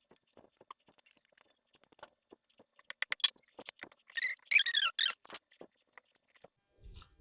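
Napa cabbage being mixed by hand with chili paste for kimchi: scattered wet crunches and crackles, with a run of high squeaks a little past halfway.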